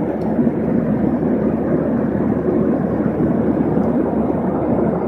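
Steady, low cabin drone of an airliner in flight: engine and airflow noise inside the passenger cabin.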